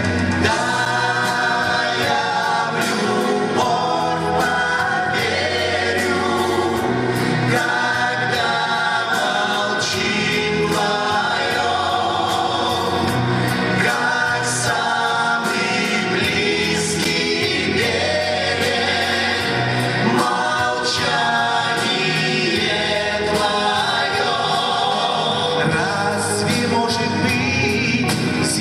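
Live pop band performing a 1970s–80s Soviet estrada song: group singing over a steady drum beat and band accompaniment.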